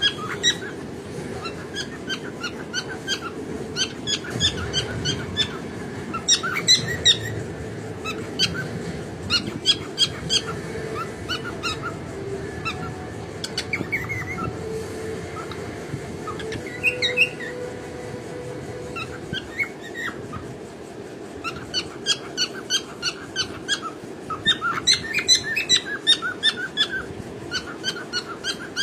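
Cockatiel singing: long runs of quick, short chirping notes, thinning out in the middle and coming thick and fast again in the last third.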